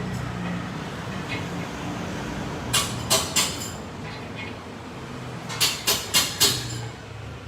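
Sharp knocks in two quick groups, three and then four, over a steady low hum, typical of tool work on a car's suspension.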